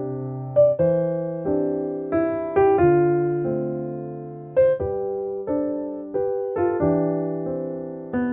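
Background piano music: a gentle melody of notes and chords, each struck sharply and left to fade, with a new one about every half second.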